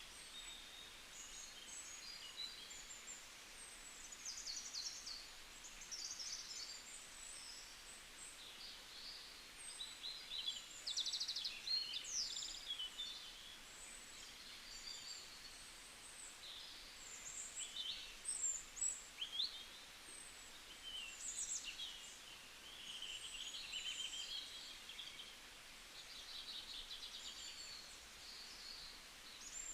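A chorus of many small birds chirping and trilling, short high calls overlapping one another over a faint hiss.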